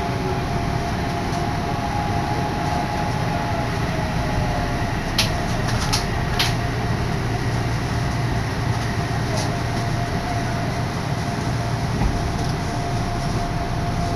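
Odakyu electric commuter train running beside a station platform: a steady rumble with a thin hum, and a few sharp metallic clanks about five to six and a half seconds in.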